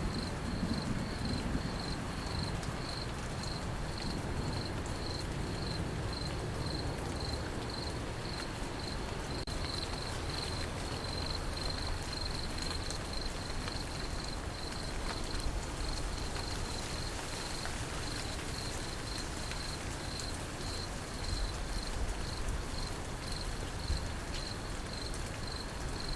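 Field crickets chirping in a steady, evenly pulsing high-pitched trill over the even hiss of falling rain.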